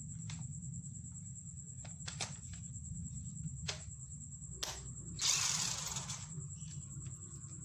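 Scattered sharp clicks and taps from handling small hard parts, with a louder scraping rustle lasting about a second near five seconds in, over a low steady hum.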